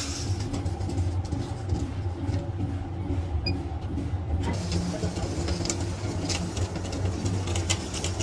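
Workshop machinery running with a steady low hum. From about four and a half seconds in, light metallic clicks and knocks join it.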